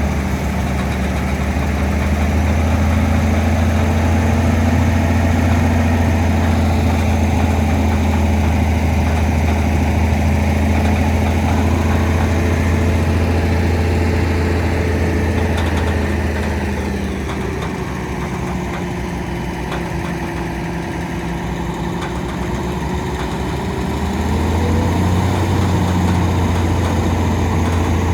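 Truck engine running steadily during unloading; its revs sag from about two-thirds of the way in, then pick back up a few seconds before the end.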